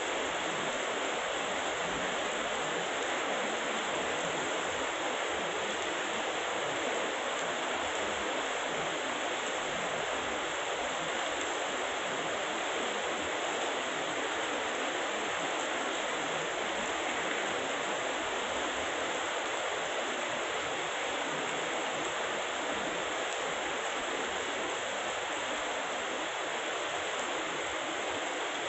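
Heavy rain falling, a steady, even hiss with no breaks or claps of thunder.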